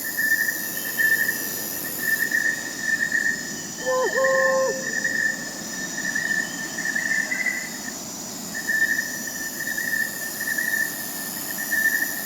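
Crickets chirping in a steady pulsing trill, with a thinner high insect drone above them. About four seconds in, an owl gives one short hoot.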